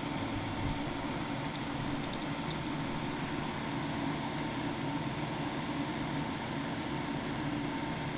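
A steady mechanical hum and hiss with a faint steady tone, unchanging throughout; a few faint light ticks about two seconds in.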